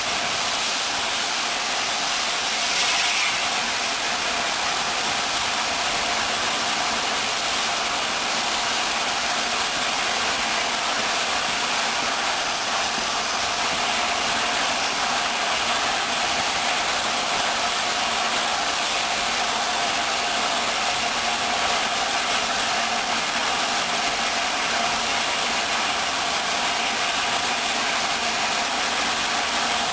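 Steady, even noise from the steam train hauled by LNER Peppercorn A1 Pacific No. 60163 Tornado, with a brief louder hiss about three seconds in.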